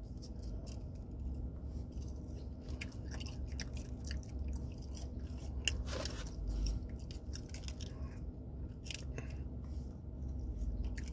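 A person chewing and eating french fries close to the microphone, with scattered small clicks and crackles over a low steady hum.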